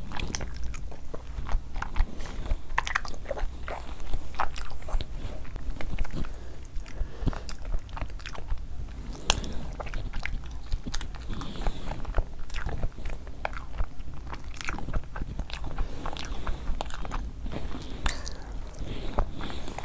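Close-miked eating: wet chewing, biting and lip smacks from a person eating soft fufu dipped in curry. The sound comes as an irregular run of short clicks and smacks.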